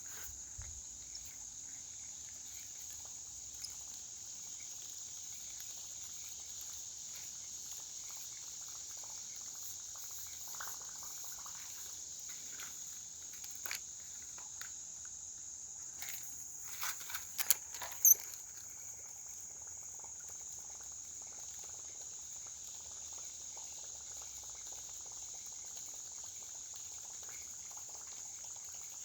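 Steady high-pitched chorus of insects such as crickets, with a few sharp clicks and knocks about seventeen to eighteen seconds in.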